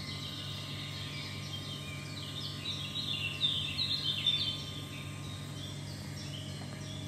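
Bird chirping: a quick run of short, downward-sliding chirps in the middle, over a steady low hum.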